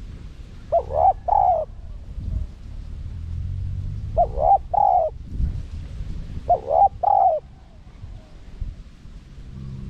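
Spotted dove cooing: three short phrases of two or three coos each, a few seconds apart, over a low steady rumble.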